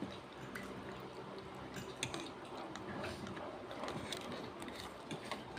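Quiet eating sounds: faint chewing and a few small clicks of utensils, over a low steady hum.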